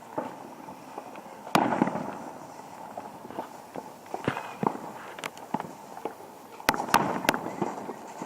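Fireworks going off: a loud bang followed by crackling, scattered smaller pops, then three bangs in quick succession near the end, each trailed by crackle.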